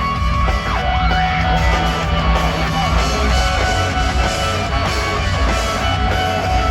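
Rock band playing live, led by guitar, over a heavy, steady low end; a guitar note bends upward about a second in.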